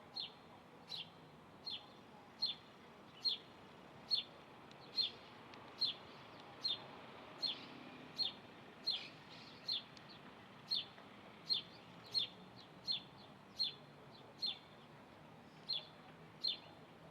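A bird repeating a short, high chirp at a steady pace, a little more than once a second, some twenty times in a row.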